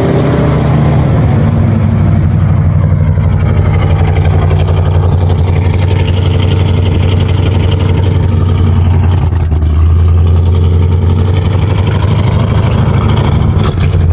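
Chevrolet 396 big-block V8 in a squarebody Silverado pickup, running loud and steady under load as the truck drives. It gets slightly louder about ten seconds in.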